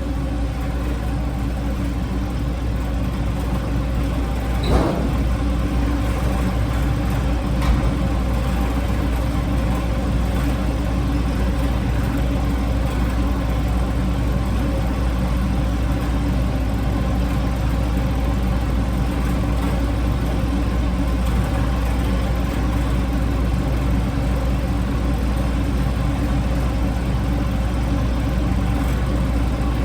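Steady machine hum, like a running fan or motor, that carries on evenly, with a couple of faint knocks about 5 and 8 seconds in.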